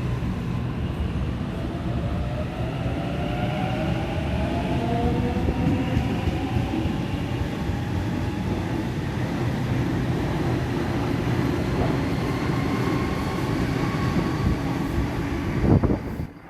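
Electric suburban passenger train moving through the station: steady rumble of wheels on rail, with the whine of the traction motors rising in pitch as it picks up speed. A single loud knock comes near the end, just before the sound cuts off suddenly.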